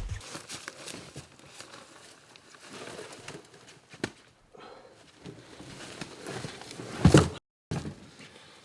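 Rustling and scattered light knocks, with one heavy thump about seven seconds in, after which the sound cuts out completely for a moment.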